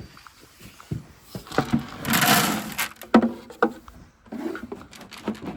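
Barn chore handling noise: scattered knocks, with a rushing, scraping noise lasting just under a second about two seconds in.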